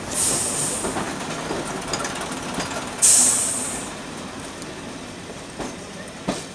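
Passenger coaches of a train rolling past along a platform, wheels running steadily on the rails. There is a burst of hiss at the start and a louder one about three seconds in, and two sharp clicks near the end.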